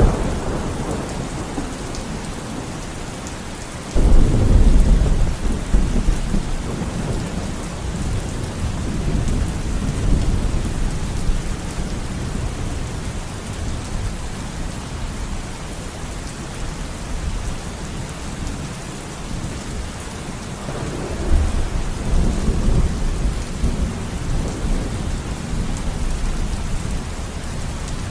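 Steady rain falling, with rolling thunder. A sudden loud thunderclap comes about four seconds in and rumbles away over several seconds, and a second, softer rumble of thunder follows later.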